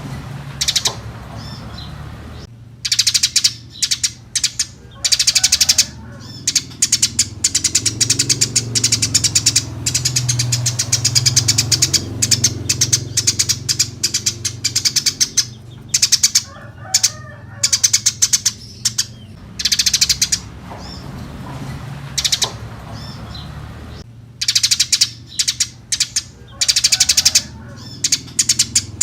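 Eurasian tree sparrows chirping busily in rapid runs of short, high chirps, coming in repeated bouts with short pauses between them. A steady low hum sits underneath.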